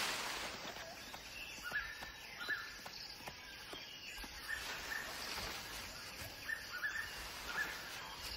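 Forest ambience with a bird giving short, repeated chirps about once a second.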